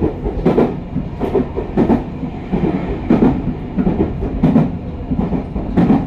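Train running along the track: a steady low rumble with the wheels clacking over rail joints, a knock roughly every half second to second.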